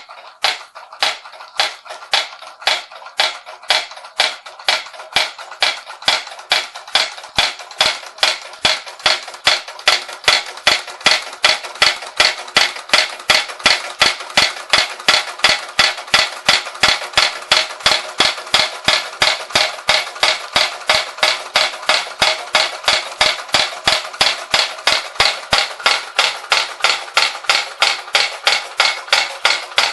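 Bing toy hammer accessory, driven by a Bing toy steam engine, striking over and over: sharp knocks at about two a second at first, quickening to three or four a second within the first ten seconds and then keeping an even beat, over the engine's steady whirring hiss.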